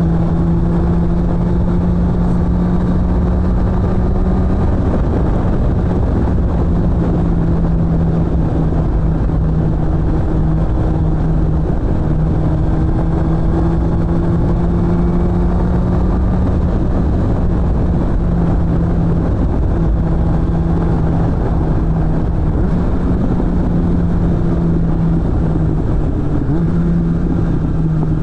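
Suzuki GSF600 Bandit's inline-four engine through an aftermarket BOS exhaust, running at fairly steady revs while riding. The pitch dips slightly a few times.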